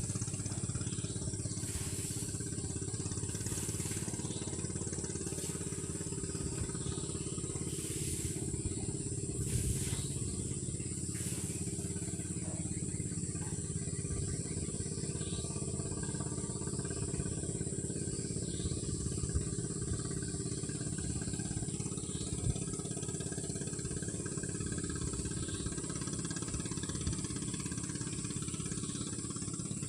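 A small engine running steadily, with a few faint clicks in the first dozen seconds.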